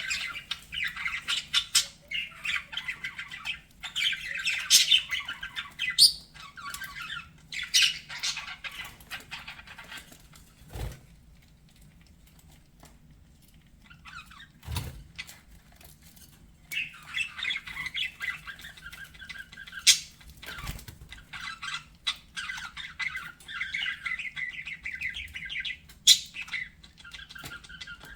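Budgerigars chattering and warbling in a fast, continuous twitter with sharp chirps, the chatter of budgies courting. The chatter drops away for a few seconds in the middle, where a few soft thumps are heard, then picks up again.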